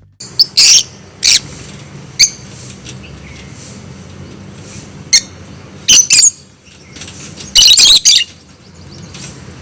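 African lovebirds giving short, shrill chirps and squawks in scattered bursts, with a quick flurry of calls about three-quarters of the way through.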